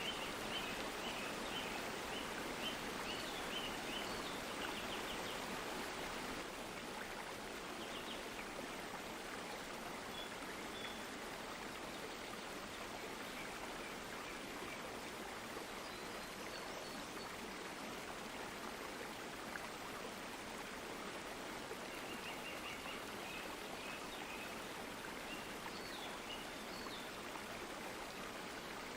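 Water of a stream flowing steadily, an even rushing hiss, with faint short high chirps now and then.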